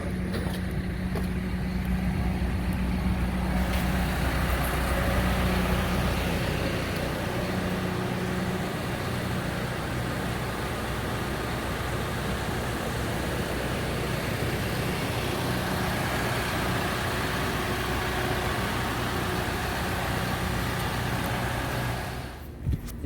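Heavy vehicle's engine running steadily, a low even hum under a wash of noise, stopping shortly before the end.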